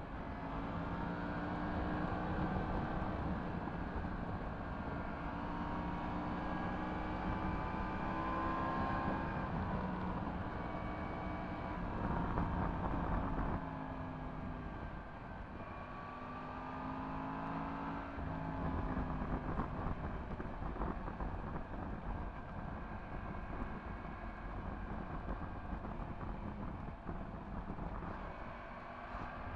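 Yamaha MT-10 SP's crossplane inline-four engine through an Akrapovič exhaust, under way on the road. It rises in pitch under throttle and falls back off-throttle several times, with a drop in level about 13 seconds in, over a steady rumble of wind and road.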